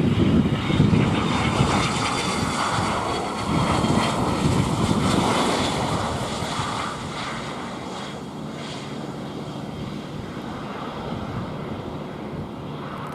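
Cessna Citation XLS+ twin turbofan business jet passing on landing, its engine whine falling slightly in pitch, then fading and dropping away about seven seconds in.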